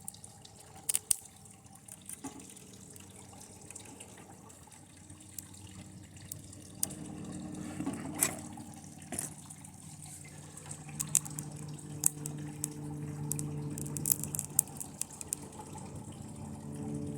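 A TV circuit board sizzling and crackling as it burns under high current from a lead-acid battery, with scattered sharp snaps. A low hum joins in about seven seconds in and gets louder.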